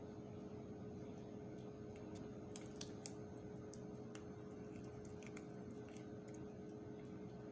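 A cat chewing fried chicken: scattered small wet clicks and crunches, two sharper ones about three seconds in, over a steady background hum.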